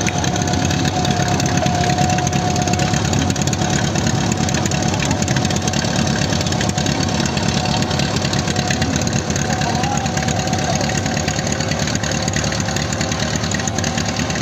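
Suzuki Jimny's engine running steadily with a dense low rumble.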